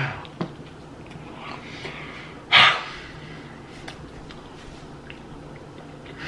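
A man chewing a mouthful of cheeseburger, with small wet mouth clicks, and one short, sharp breath through the nose about two and a half seconds in.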